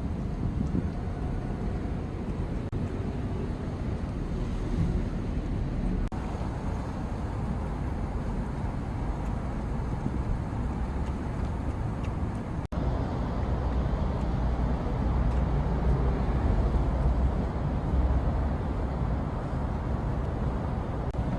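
Steady low rumbling outdoor background noise with no distinct events. It drops out briefly a little past halfway and is somewhat louder afterwards.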